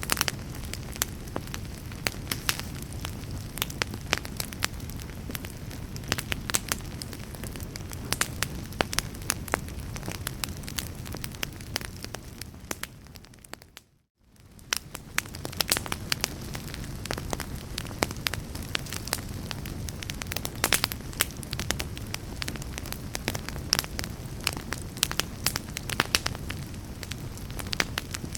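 Wood fire crackling: a steady low rumble with frequent sharp, irregular pops and snaps. About halfway through it fades out to near silence for a moment and fades back in, like the seam of a looped recording.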